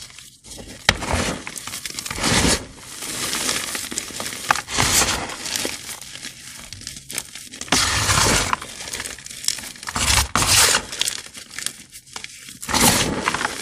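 Crunchy gym chalk blocks coated in sand and glitter being crushed and crumbled, with a crisp crunching and crackling in irregular bursts and lighter crumbling between them.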